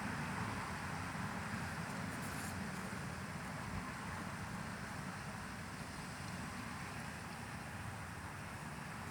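Steady white-noise sleep sound: an even low rumble with a hiss above it, no rhythm or breaks, easing very slightly in level.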